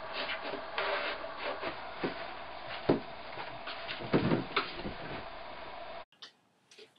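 Handling noises: a run of knocks, taps and rubbing over a steady hum, which cuts off abruptly about six seconds in.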